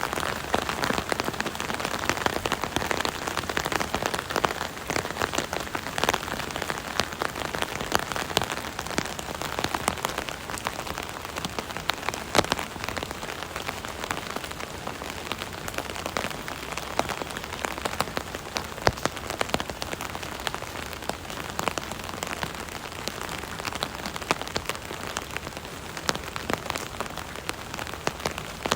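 Rain falling on an umbrella canopy heard from underneath: a steady patter of drops with many sharper individual taps.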